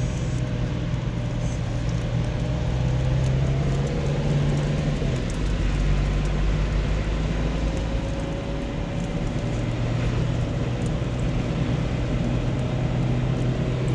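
A car driving at steady speed, heard from inside the cabin: a continuous low engine hum with road and tyre noise, the pitch shifting slightly now and then.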